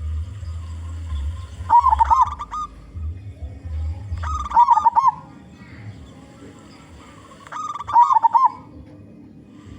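Zebra dove (perkutut) cooing: three short phrases of quick, rolling coos, about one every three seconds, the full-voiced call used as a lure for other zebra doves. A low hum runs under the first half.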